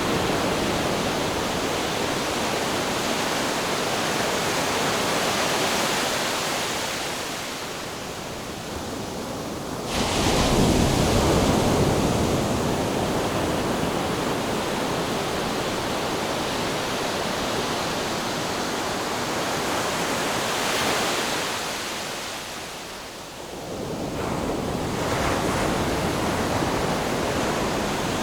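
Ocean surf: waves breaking and washing in, a continuous rushing noise that swells and ebbs. It rises suddenly about ten seconds in and again about four seconds before the end.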